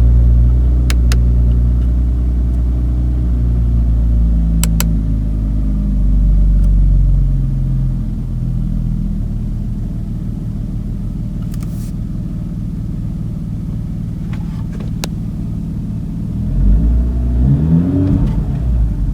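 Audi S5's turbocharged V6 just after starting, running at a raised idle that falls away and settles to a steady idle over the first several seconds. Near the end it is revved with a few quick throttle blips. A few light clicks are heard along the way.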